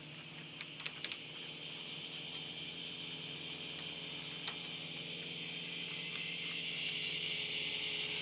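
Aerobatic plane's propeller engine droning steadily and growing gradually louder as the plane comes back toward the listener, with a few light clicks in the first second or so.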